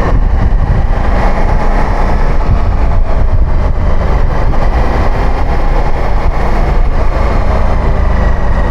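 Motorcycle engine running steadily while riding, with heavy low wind rumble on the microphone.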